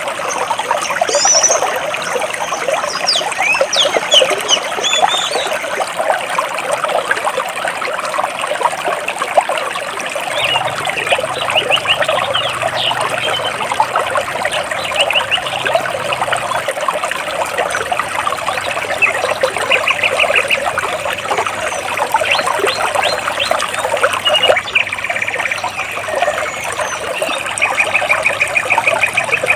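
A stream trickling and splashing between rocks, with small birds chirping over it; two short, rapid trills of repeated notes come about two-thirds of the way in and near the end.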